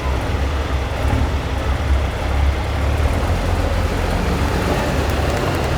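Deep, steady rumble of Peterbilt big-rig diesel engines running.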